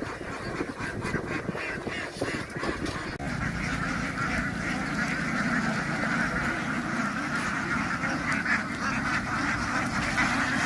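A large flock of ducks quacking all together, a dense continuous chatter of overlapping calls. It changes abruptly about three seconds in and becomes steadier, with a low steady hum underneath.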